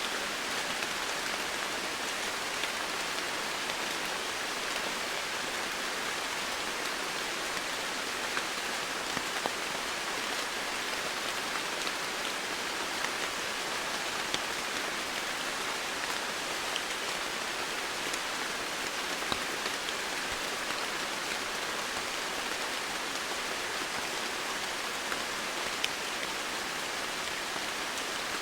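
Steady rain falling on foliage and surfaces, an even hiss with scattered small drop ticks.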